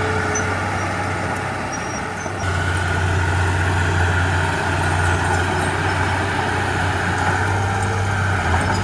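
Heavy diesel earthmoving machinery running with a steady low engine hum, getting louder about two and a half seconds in.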